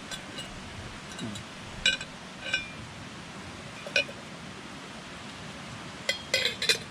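Camping cookware clinking as it is handled: a few separate light clinks, then a quick run of clinks near the end.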